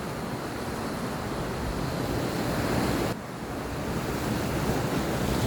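Sea waves washing on the shore in a steady rush, with wind on the microphone. The sound drops suddenly about three seconds in, then builds again.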